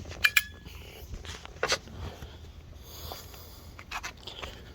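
Sharp clicks and taps of a screwdriver and a small screw being worked out of a car's door panel: two quick clicks at the start, a louder one about a second and a half in, and another pair near the end.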